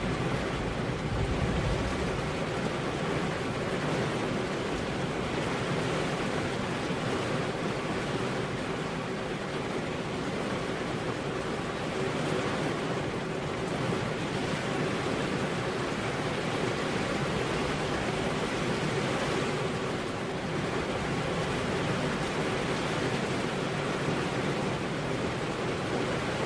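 Steady rain falling, an even hiss without breaks. A low rumble fades out in the first two seconds.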